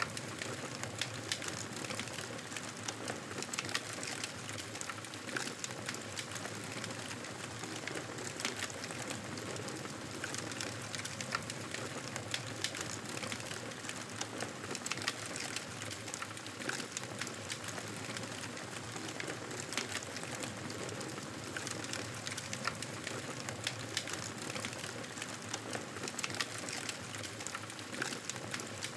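Campfire burning, with dense, irregular crackling and popping over a steady hiss.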